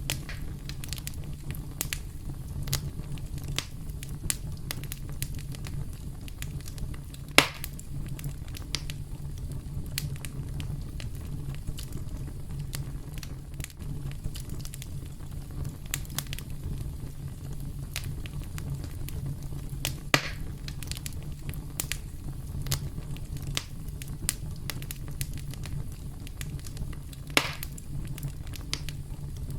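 Campfire burning with a steady low rumble and frequent small crackles, with three louder pops spread through.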